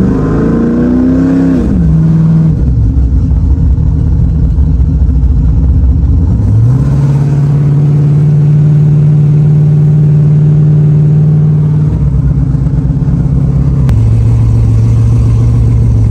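Car engine heard from inside the cabin while driving: it revs up, drops back, then climbs again and holds a steady pitch for about five seconds before easing off in two steps near the end.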